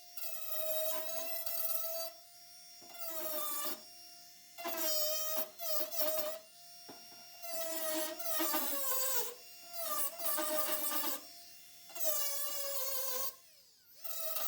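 Electric grinder on sheet steel, whining in short runs of one to two seconds that stop and start, its pitch sagging when pressed into the metal.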